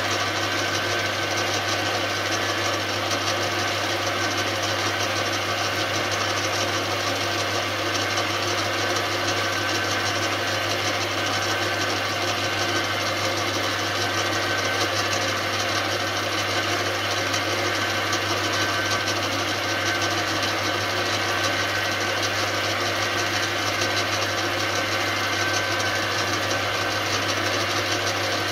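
Metal lathe running forward at a steady speed, its motor and gear drive giving an even hum throughout, while a very light skim cut is taken off a part.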